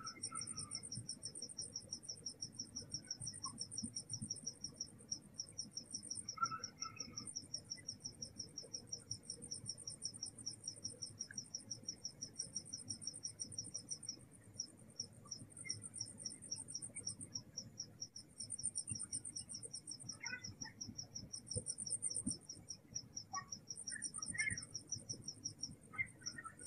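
Night insects, crickets, calling: one chirps in a steady rapid train of about six chirps a second, while a second, higher-pitched one trills in bursts of a second or two with short gaps, over a low steady hum.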